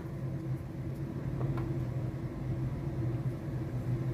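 Steady low electrical hum with a couple of faint clicks about a second and a half in.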